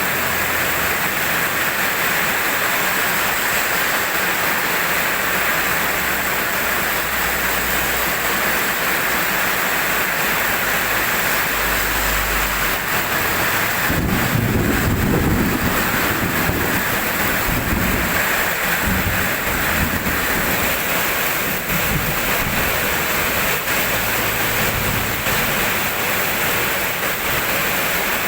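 Steady rain falling, with low rumbles of thunder about halfway through.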